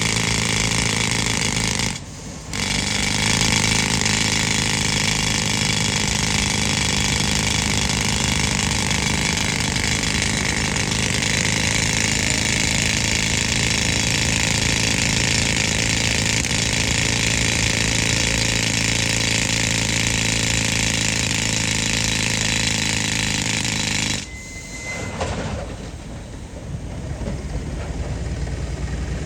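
Pneumatic rock drill hammering steadily, fed by an old air compressor whose engine runs underneath. The drill cuts out briefly about two seconds in, then stops suddenly near the end, leaving the compressor engine running more quietly.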